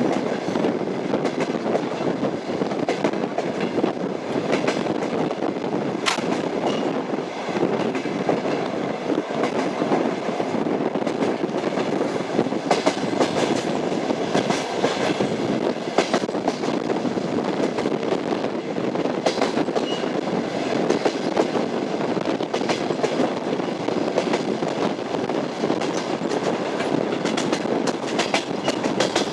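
Moving passenger train: a steady rumble of the cars with the clickety-clack of wheels over rail joints and occasional sharp clicks.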